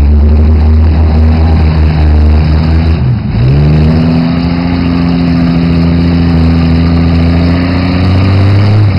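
SUV engine revving hard under load during a mud recovery. The revs dip about three seconds in, then climb back and hold high, rising slightly until near the end.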